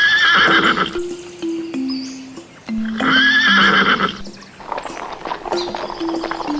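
Horse whinnying twice, each a shaky, wavering call about a second long, over light background music with a simple melody. Hooves clip-clop in a quick run of knocks near the end.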